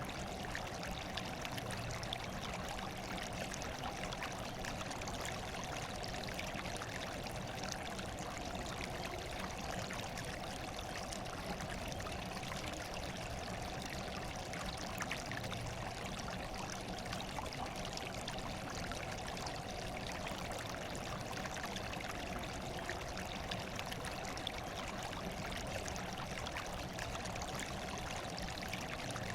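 Running water flowing and trickling with a steady, unchanging rush.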